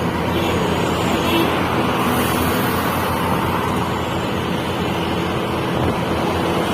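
Mitsubishi Fuso truck engine running steadily, with road noise.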